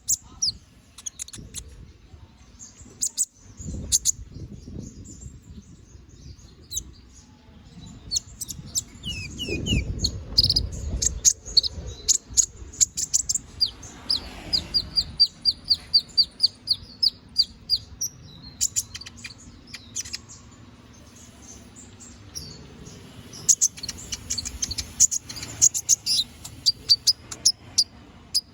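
Domestic canary singing continuously: a busy, chattering song of sharp chirps, clicks and trills, with a fast run of evenly repeated notes about halfway through.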